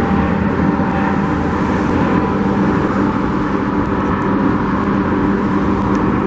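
Steady drone of vehicle engines from the equipment moving dirt around the lot, a constant hum with no change in pitch.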